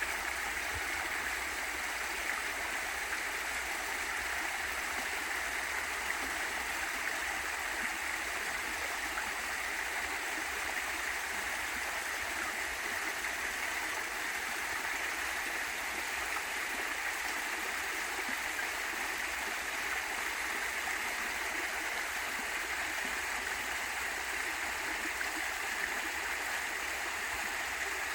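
Small waterfall and valley stream water rushing in a steady, even wash with no breaks.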